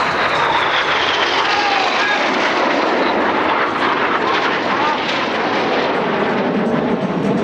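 BAE Hawk T1 jets flying a low pass: loud jet noise with a high whine that falls in pitch over the first three seconds as they go by.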